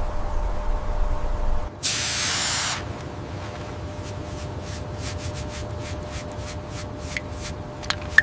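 A low rumble, then a loud burst of spraying hiss lasting about a second, followed by a run of short, faint spurts.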